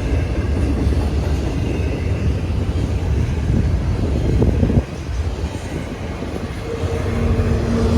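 Freight train rolling past, a steady low rumble of the cars on the rails. The rumble drops off abruptly about five seconds in.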